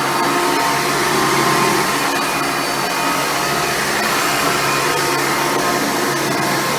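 Hoover Futura Elite upright vacuum cleaner running steadily, with an even motor whine over the rush of air.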